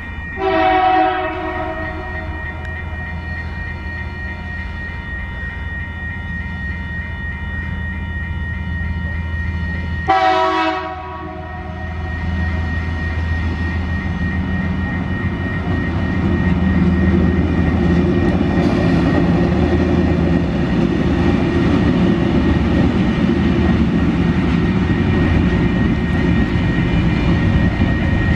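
Tasrail TR-class diesel locomotives sounding two short horn blasts, about a second in and again some nine seconds later, over the steady drone of their engines. The engine drone and rail noise then grow louder as the train draws closer.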